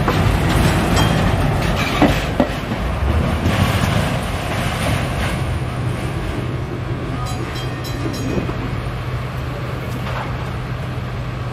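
Empty container flatcars at the tail of a freight train rolling over the rails, with sharp wheel clicks at rail joints about two seconds in. The sound eases off after about five seconds as the last wagon moves away, leaving a steady low hum.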